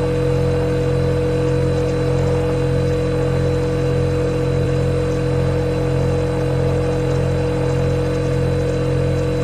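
Refrigerator compressor humming steadily: a low drone with a clear, steady higher tone riding on it.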